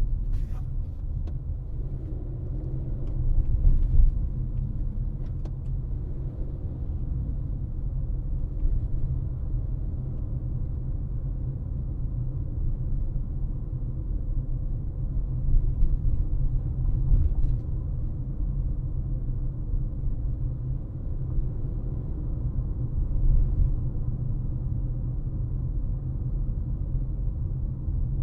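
Steady low rumble of a car driving, with road and tyre noise and a few faint ticks.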